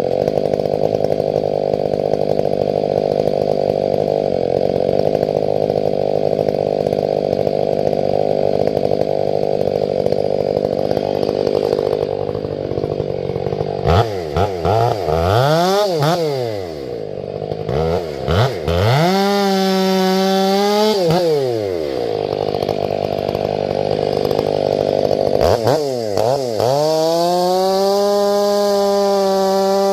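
Ported Stihl 500i fuel-injected two-stroke chainsaw cutting through a grand fir log, its engine running steadily under load for roughly the first half. It then revs up and down several times, holds high briefly, drops, and near the end climbs to a high free-running rev and stays there.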